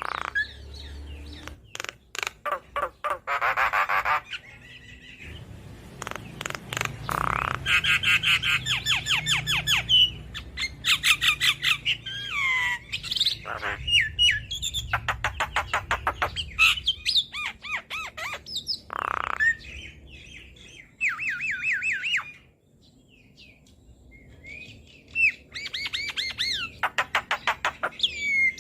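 Javan myna singing: rapid runs of chattering repeated notes mixed with harsh squawks and short whistled slides, with a quieter pause a little past two-thirds of the way through.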